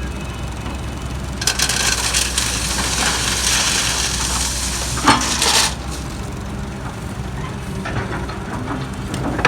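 JCB JS160 wheeled excavator's diesel engine running steadily under work. From about a second and a half in, a rough crunching hiss rises over it for around four seconds, ending in a couple of knocks, with a few sharp clicks near the end.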